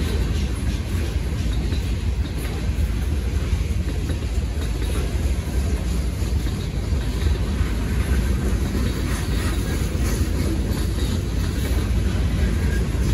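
Manifest freight train's boxcars rolling past at a grade crossing: a steady, low rumble of steel wheels on the rails.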